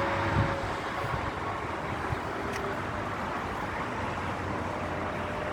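Steady ambient rumble and hiss of a building site, with a couple of faint clicks.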